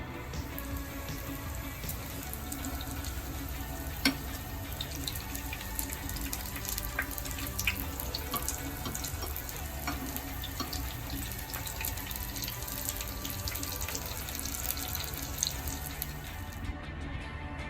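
Spring rolls frying in hot oil: a steady sizzle with many scattered pops and crackles, over quiet background music. The sizzle stops about a second before the end.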